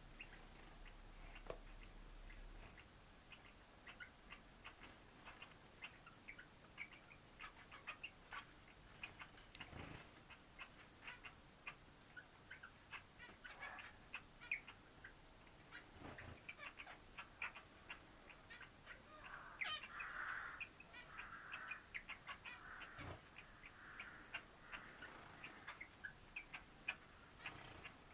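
Cockatiel sounds, faint: many short clicks and ticks, with a stretch of soft chirping about twenty seconds in.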